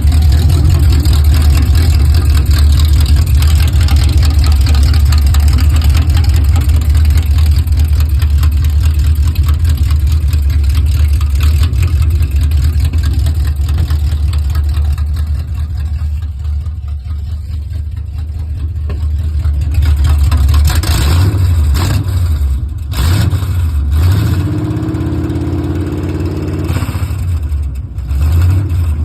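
Small-block Chevy V8 running through new headers: a loud, steady idle that quietens after about fifteen seconds, then several short throttle blips with the revs rising and falling in the last third.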